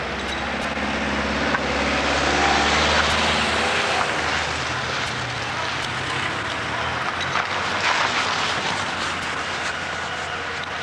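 Diesel engine of a demolition machine running under load, with a broad rumble of breaking and falling rubble and scattered sharp cracks. The noise swells a couple of seconds in and again near the end.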